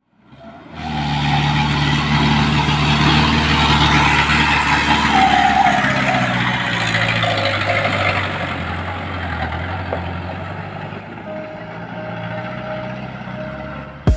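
Heavy truck engine running with a loud, steady low drone. It comes in from silence about a second in and slowly fades over the second half.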